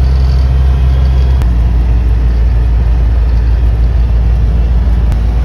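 A vehicle engine running with a steady low hum, its note shifting about a second and a half in, with a faint click then and another near the end.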